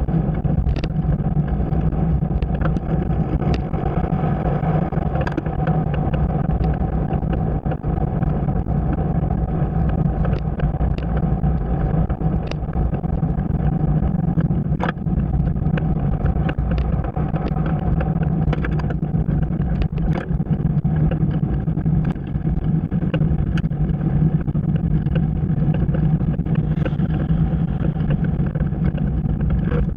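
Motorcycle engine running at a steady cruising speed, with road and wind noise and scattered small knocks.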